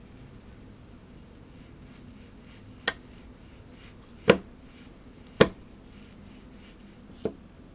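A utensil clinking against a dish four times, with sharp short clicks spread over a few seconds; the second and third are the loudest.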